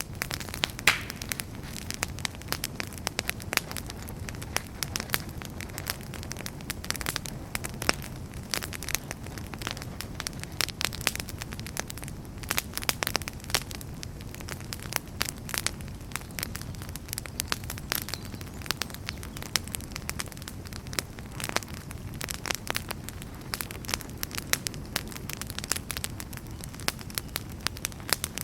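Wood fire crackling in a fireplace: many irregular pops and snaps over a low, steady rumble.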